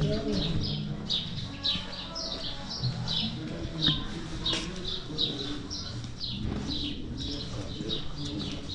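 Small birds chirping busily: short, high, downward-sliding chirps repeated several times a second, over a low background murmur.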